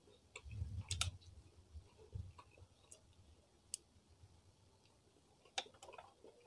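Close-miked mouth sounds of eating rice and fried fish by hand: faint wet clicks and smacks of chewing. They come in a cluster about a second in, a few single clicks after, and another cluster near the end.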